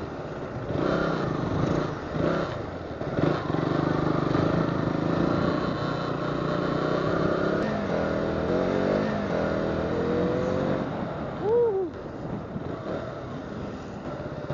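KTM 200cc motorcycle's single-cylinder engine running under throttle while riding, its pitch rising and falling as it accelerates and changes gear. Near the end comes a short, sharp rise and fall in pitch, the loudest moment.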